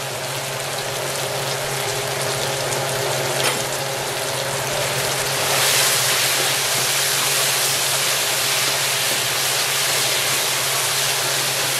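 Gold oyster mushrooms, onion and jarred minced garlic sizzling steadily in hot olive oil in a wok while a spatula stirs them. The sizzle grows louder about halfway through as the garlic is stirred into the hot oil. A steady low hum runs underneath.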